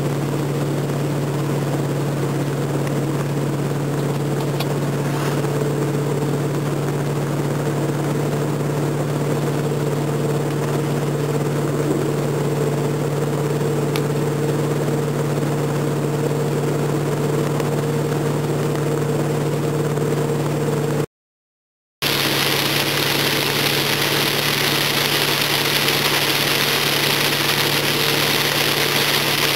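Car engine running at a steady speed under a constant hiss of tyre and water noise. About 21 seconds in the sound drops out for a moment, then returns with the hiss louder and brighter.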